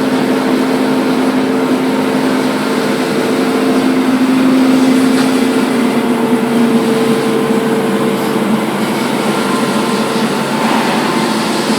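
Wide belt sander running, a loud steady machine hum over a noisy rush, swelling slightly about four seconds in.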